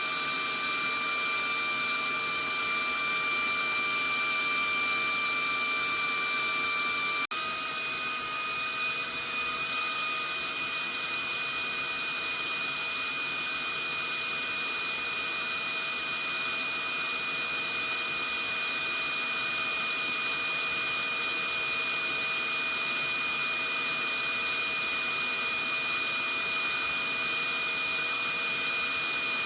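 Vacuum cleaner running steadily: a rush of air under a high motor whine. About seven seconds in it drops out for an instant, and then carries on with the whine slightly higher and a little louder.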